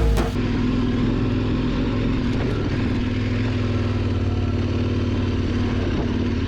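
Heavy motorcycle engine running at a steady, unchanging pitch while riding.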